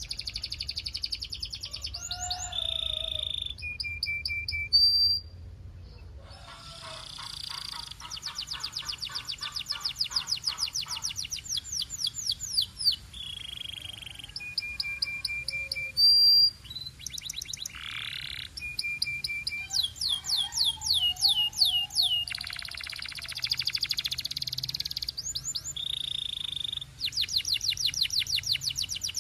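Domestic canary singing a long song of fast, evenly repeated trills, broken by short held whistled notes and lower rolling phrases.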